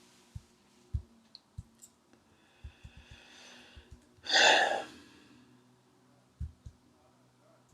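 A man's audible sigh, a long breath out about four seconds in, after a quieter breath just before it. A few soft, low thumps, like light knocks on the microphone or desk, come and go.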